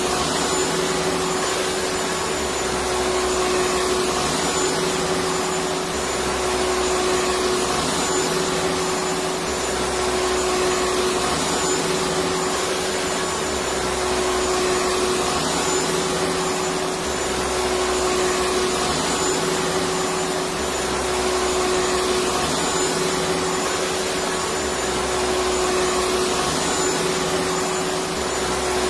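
Vacuum cleaner running steadily: a dense, even whooshing noise with a constant hum. A soft low pulse repeats about every two seconds underneath.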